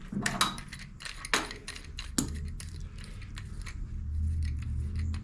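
Hand tools and metal engine parts clinking and knocking in a few separate light strikes, over a low steady hum.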